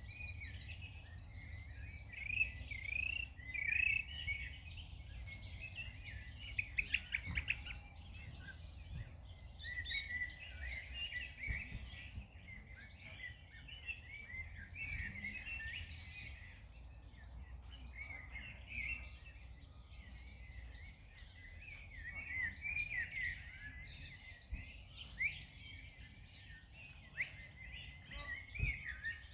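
Many songbirds singing and chirping at once, a dense chorus of short trills and tweets, over a low steady rumble.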